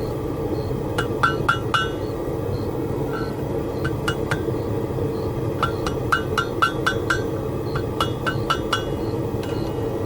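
Hammer blows ringing on an anvil as a chain link is forged, in quick runs of about four strikes a second with short pauses between. A steady noise runs underneath.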